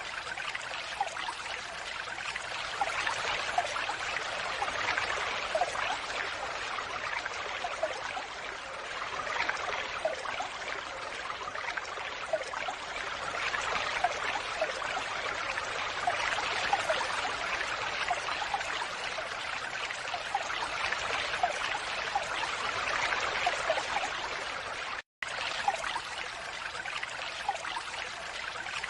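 Steady falling water, pouring and trickling, with small droplet plinks through it. The sound cuts out completely for an instant about 25 seconds in, then carries on as before.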